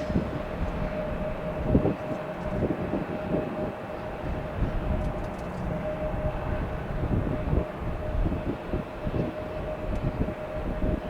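Jet noise from a four-engine Airbus A340-300 airliner on its arrival: a steady rumble with a steady hum-like tone running through it, broken by irregular low thumps of wind on the microphone.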